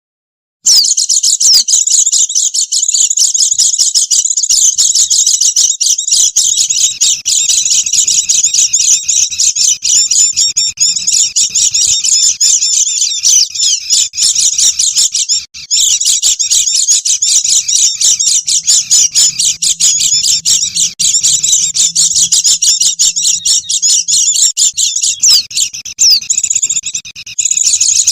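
A flock of white-eyes (pleci) chattering busily in a dense, unbroken stream of high, rapid chirps, played as a lure call to draw in wild birds. It starts just under a second in and has a brief break about halfway through.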